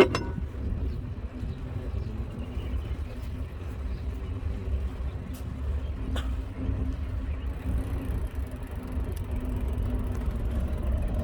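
Steady low rumble of riding noise on a moving mountain bike, with a few faint clicks.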